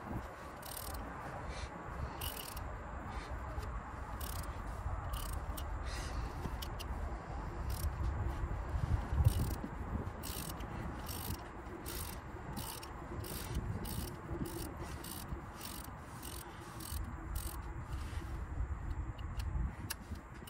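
Scattered light clicks of hand tools being worked on the engine, over a low rumble.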